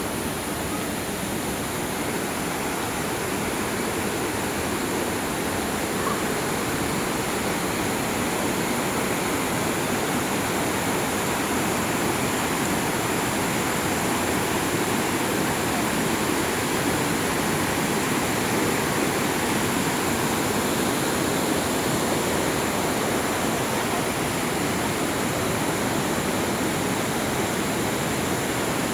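River water rushing steadily, an even unbroken wash of sound.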